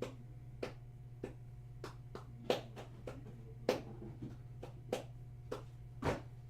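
Regular ticking, about three ticks every two seconds, over a steady low hum, with a few ticks landing louder than the rest.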